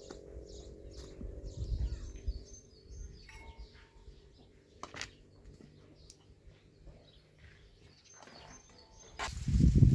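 Small birds chirping repeatedly in the background, with low handling knocks early on, a sharp click about halfway, and a louder brief rustling thump near the end.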